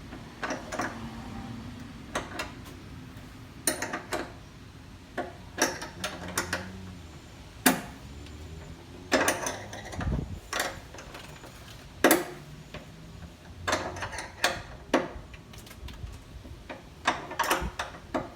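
A half-inch wrench clinking and clicking on the metal nut of a truck-bed sidewall tie-down anchor as it is tightened down. The sharp metallic clicks come irregularly, about one a second, as the wrench is refitted stroke by stroke, with a dull thump about ten seconds in.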